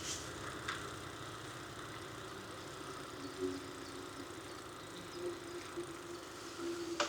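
Bicycle ride ambience picked up on the bike-mounted action camera: a steady hum of tyres on pavement and wind on the microphone, with a couple of light clicks, about a second in and near the end.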